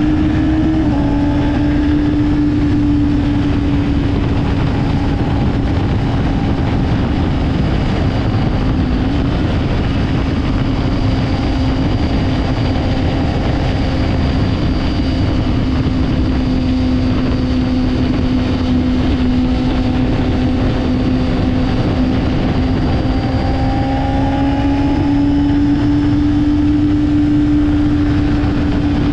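2024 Honda CBR600RR's inline-four engine running at steady high revs, its pitch holding almost constant over a dense rushing noise. The pitch dips slightly about a second in and rises a little near the end.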